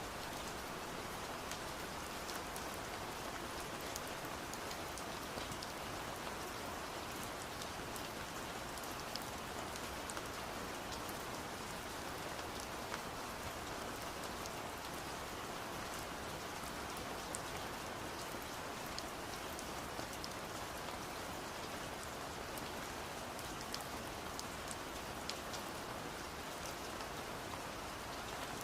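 Steady rain with many small sharp taps of drops striking a window pane, over an even hiss of rainfall.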